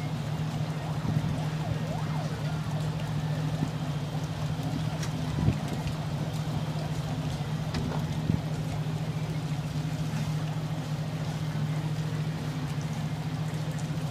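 A vehicle engine idling with a steady low hum, with two brief knocks, about five and a half and eight seconds in.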